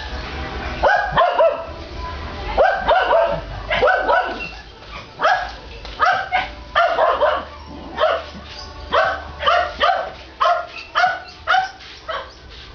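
A dog barking over and over in short, fairly high-pitched barks, often two or three in quick succession, about one to two a second.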